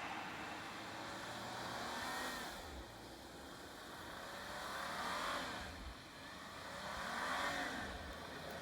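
4x4 engine faintly revving several times, its pitch rising and falling about two seconds in, again around five seconds and again near the end.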